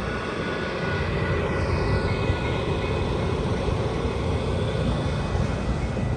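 Metra commuter train moving through the station, a loud steady rumble with faint thin tones above it.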